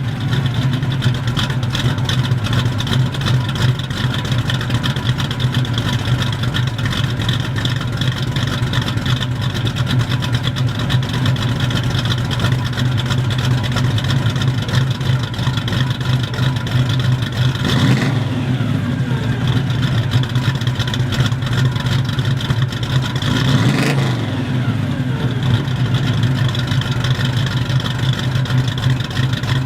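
1974 Pontiac GTO's V8 idling through its exhaust with a steady rumble. It is revved briefly twice, about six seconds apart in the second half, and each rev falls back to idle.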